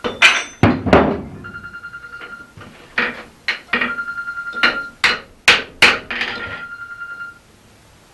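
Hammer blows on an anvil while forging a felling axe head: a series of heavy strikes on the steel, with stretches of quick, light, ringing taps on the anvil in between.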